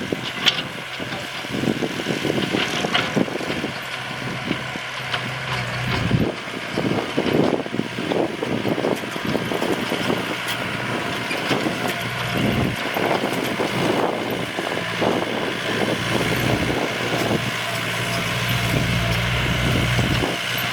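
Yanmar tractor's diesel engine running steadily under load while plowing, with irregular clattering and knocking throughout.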